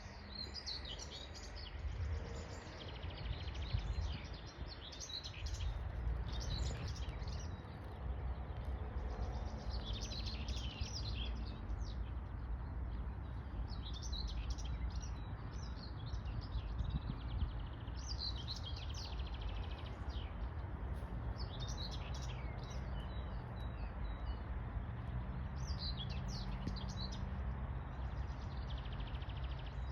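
Songbirds singing in short, repeated chirping phrases, one after another, over a steady low rumble underneath.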